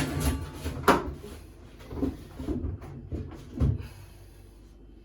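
Washing machine parts being handled and fitted back together: a sharp knock about a second in, then a few softer thumps and clunks.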